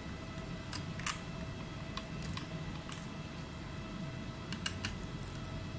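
Light, sharp clicks and taps of small tools handled on a laptop under repair, scattered irregularly, over a steady background hum.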